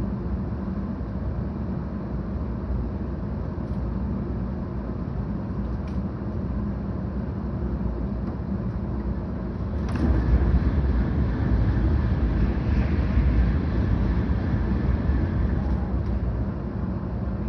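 Cabin noise inside a 700 series Shinkansen train while it runs: a steady rumble of wheels and running gear. About ten seconds in there is a sharp click, and the rumble jumps louder and stays louder.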